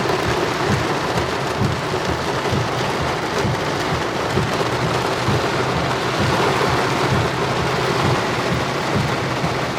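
Heavy rain falling steadily on the roof and windshield of a parked vehicle, heard from inside the cabin as a dense, even patter.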